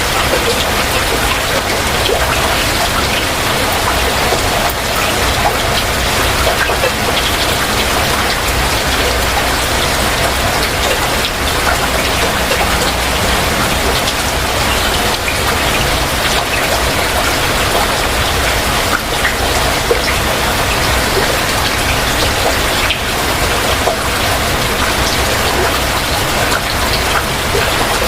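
Heavy rain falling steadily, a dense even hiss with countless small drop ticks on nearby surfaces.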